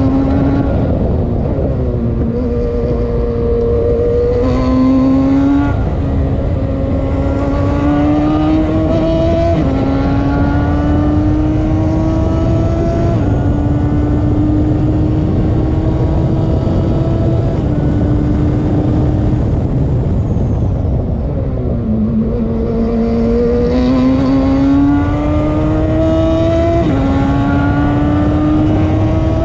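Radical race car engine running hard at track pace. Its pitch climbs steadily for a few seconds, then drops sharply at each gearshift, about half a dozen times.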